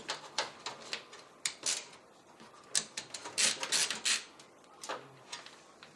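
Screwdriver unscrewing the screws that hold a graphics card's bracket to a computer case: irregular small clicks and short metal scrapes.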